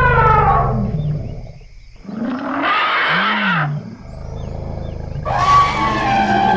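Elephants trumpeting and rumbling: a long call falls in pitch and fades in the first two seconds, a short trumpet follows about two and a half seconds in, and another loud call starts about five seconds in, over deep low rumbles.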